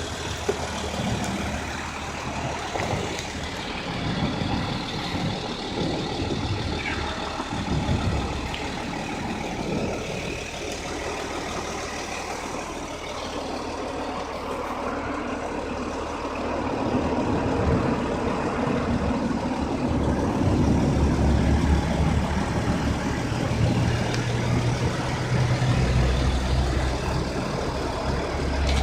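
Audi 3.0 TDI V6 diesel engine running steadily, with a low steady hum.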